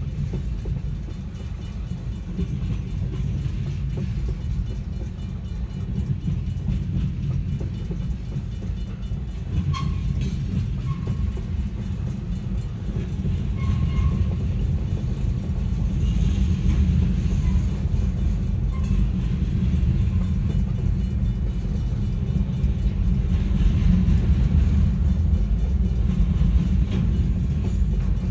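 A freight train's cars rolling through a grade crossing: a steady low rumble of steel wheels on rail. A few brief squeaks come through around the middle, and the rumble grows louder in the second half.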